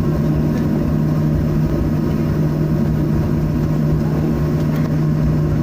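Steady cabin noise inside a Boeing 737-800 on the ground after landing: a low rumble with a steady hum from the CFM56-7B engines at low power as it taxis.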